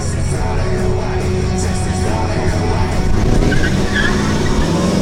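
A car doing a burnout: the engine running at high revs with the tyres spinning and skidding, building in loudness, with music playing alongside.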